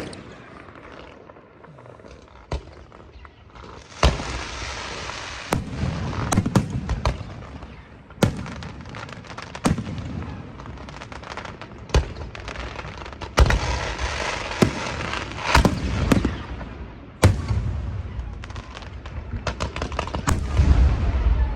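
Aerial fireworks bursting: a single sharp bang about two and a half seconds in, then from about four seconds a string of sharp bangs over continuous crackling, with a low rumble building near the end.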